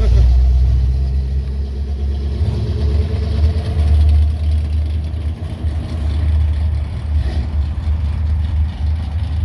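Classic American V8 muscle car engine rumbling at low revs as the car rolls past, with the rumble swelling a few times.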